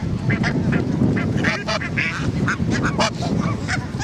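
A flock of ducks and geese calling: many short quacks and honks overlapping, several a second.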